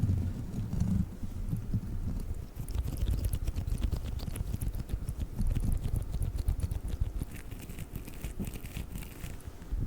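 Sticky crawler toy pressed and pulled close to the microphone: a low muffled rumble with dense quick crackles and tacky clicks, thickening about two and a half seconds in.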